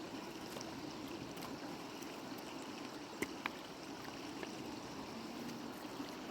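River water running steadily, with two short clicks a little past the middle.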